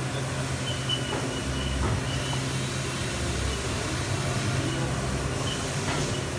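CNC machine running its part program, cutting off the part's rough edges. A steady low machine hum, with short high-pitched whines from the cut that come and go.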